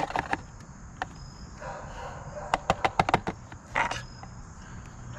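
Motor oil pouring from a bottle into the engine's oil filler, a soft hiss of liquid, with runs of quick clicks partway through and a short rustle near the end.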